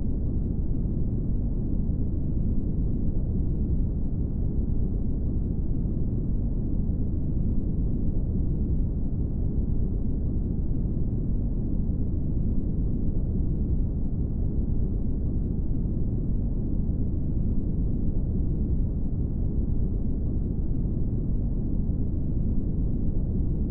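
Brown noise: a steady, deep rushing hiss, strongest in the low end and muffled, with no high frequencies.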